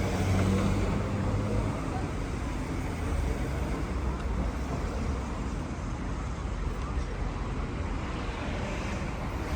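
Street traffic: a motor vehicle's engine hums close by and fades away within the first two seconds, leaving a steady wash of traffic noise.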